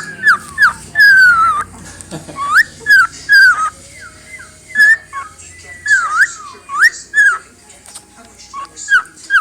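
Cockatiel whistling a run of short, swooping notes that rise and fall in pitch, in quick clusters broken by brief pauses.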